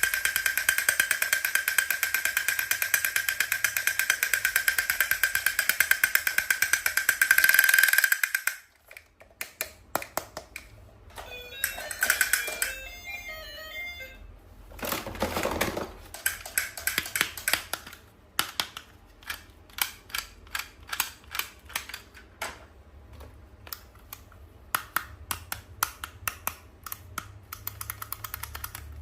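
A loud electronic toy sound, a fast buzzing pulse on a steady pitch, runs for about eight seconds and cuts off abruptly. Scattered sharp clicks and taps follow, with a short run of high beeping notes and a brief rustle partway through, and quicker clicking near the end.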